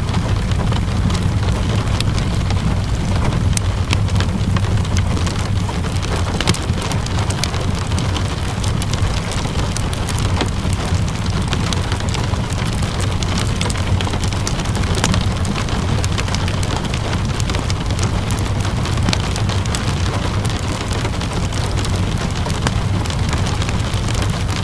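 Steady rainfall mixed with a crackling wood fire: an even hiss of rain over a constant low rumble, dotted with many small sharp pops and clicks.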